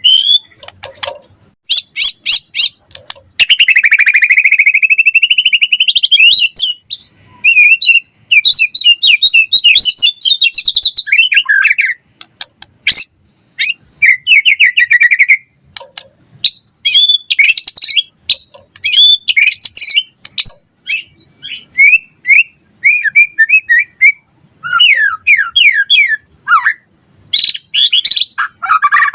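A white-rumped shama singing loud, varied song: fast phrases of whistles, trills and quick repeated notes, with a long drawn-out sweeping note a few seconds in.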